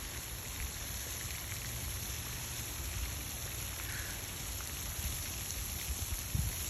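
Steady, rain-like splashing of a pond's water fountain, with a low rumble underneath.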